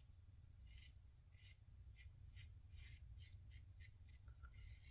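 Faint short scrapes of a 1958 Gillette TV Special safety razor with a Bic Chrome Platinum blade cutting lathered stubble, about two strokes a second, over a steady low hum.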